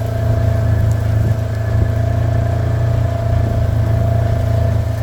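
Engine running at a steady idle.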